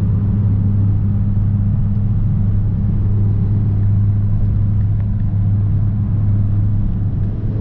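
Engine running at a steady speed, a loud, even low hum that does not change.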